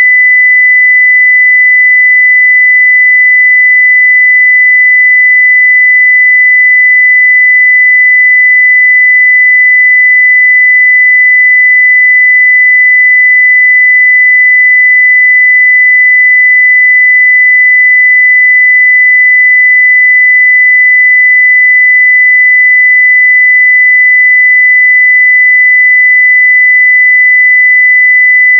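A steady 2 kHz sine-wave test tone at full level (0 dB), one unbroken pure pitch.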